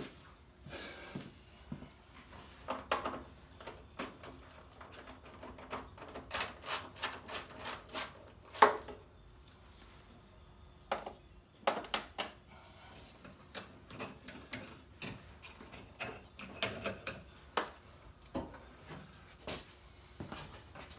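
Hand tools clicking and clinking against metal car parts while fuel-line fittings are worked loose: scattered clicks, a quick run of clicks in the middle, then one sharp metallic knock, the loudest.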